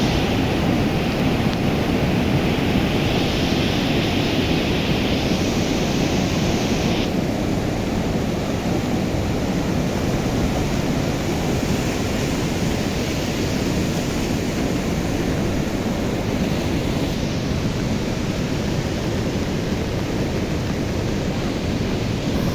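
A river in flood rushing past: a steady, loud rush of fast water with no break, its higher hiss easing about seven seconds in.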